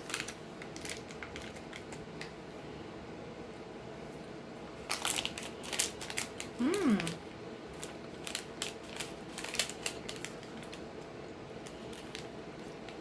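Candy-bar wrapper crinkling and crackling as it is handled, in short spells around the middle and again a few seconds later, with one brief hummed 'mm' about seven seconds in.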